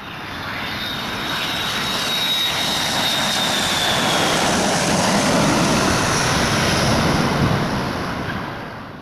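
Boeing 777-300ER jet airliner with GE90 turbofan engines passing low on approach to land. Its engine noise swells to a loud rush and then fades as it goes by. A high fan whine sinks slightly in pitch and fades out before the peak.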